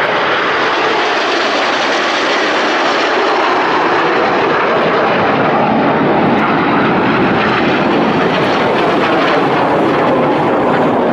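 Red Arrows' BAE Hawk jet trainers flying over in display, a steady, loud jet engine noise that holds at the same level throughout.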